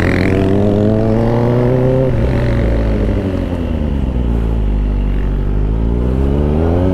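Kawasaki Ninja ZX-4RR's inline-four engine with the throttle being worked. The revs climb for about two seconds, drop and wind down slowly, then climb again near the end.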